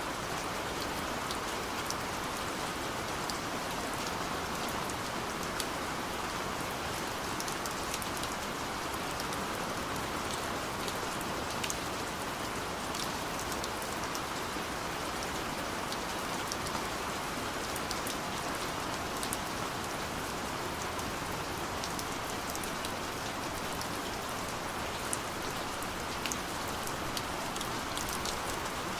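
Steady rain falling on a surface, an even hiss with many sharp individual drop ticks scattered through it.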